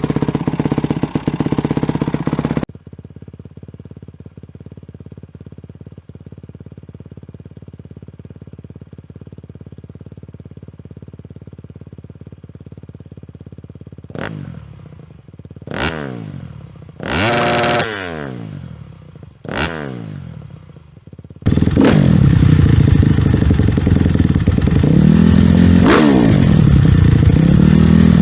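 Honda CRF250 single-cylinder four-stroke engine through an aftermarket exhaust, in several cut-together takes: loud running at first, then a steady idle. Four quick throttle blips follow, the third held briefly, and then it runs loud again, revving up and down about every two seconds.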